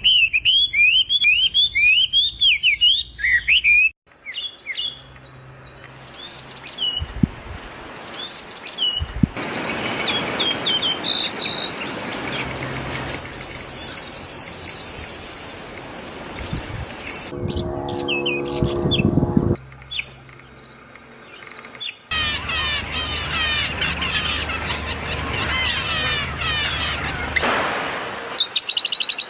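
Small birds chirping and twittering in quick runs of short chirps, across several segments that begin and end abruptly. Partway through there is a brief stretch of a lower, steadier pitched sound.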